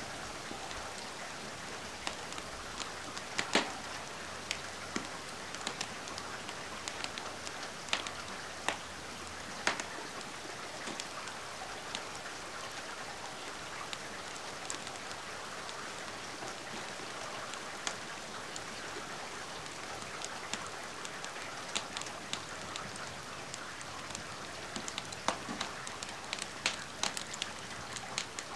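Steady rain falling, mixed with the scattered sharp crackles and pops of a wood fire burning in a fireplace. The pops come more often near the end.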